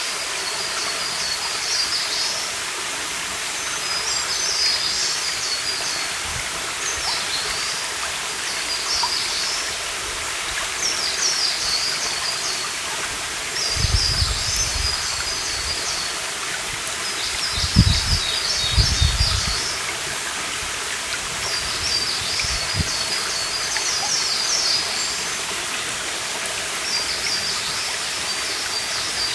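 A stream running steadily, with a songbird singing a short, high, rapid phrase over and over every two to three seconds. A few low rumbles stand out a little past the middle.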